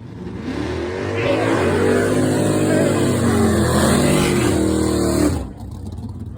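Chevrolet Monza drag car's engine at full throttle, swelling in over the first second, its pitch climbing and then sagging. The loud part cuts off abruptly about five seconds in, leaving a lower, quieter rumble.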